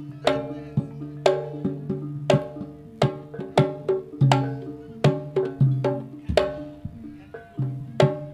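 Live Javanese jaranan-style ensemble playing: sharp hand-drum strokes over struck pitched metal percussion that rings between hits, with a low held tone underneath. The loud strikes fall irregularly, roughly one or two a second.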